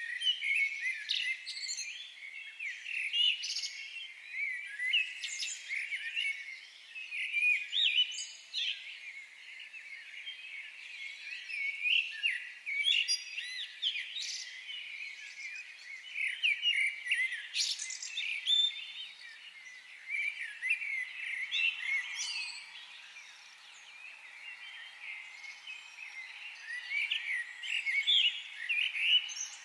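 A chorus of many small birds chirping and twittering at once, with overlapping quick calls that swell and ebb every few seconds.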